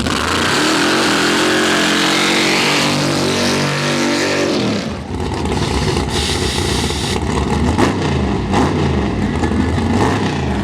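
A high-powered drag-racing engine at hard throttle for about five seconds, its pitch shifting in steps. It then drops to a lower engine sound that rises and falls repeatedly, like a series of revs.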